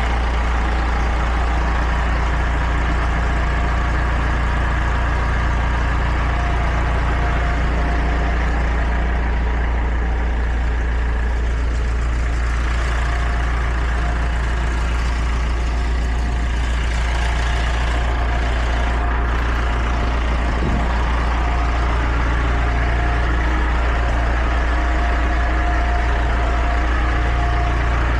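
Heavy truck engine running steadily, a constant low drone with no change in speed.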